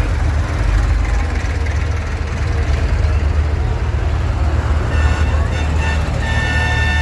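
Tractor engines running with a deep, steady rumble; about five seconds in a horn starts tooting, with a longer blast near the end.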